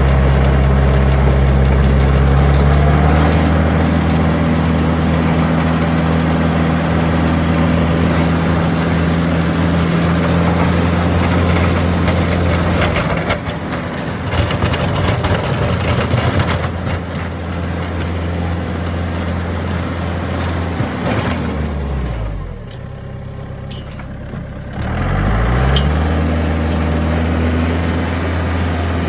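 Compact tractor engine running steadily at working speed while plowing snow, with a rougher, noisier stretch in the middle. About 21 seconds in the revs fall away to idle, and about three seconds later they climb back up.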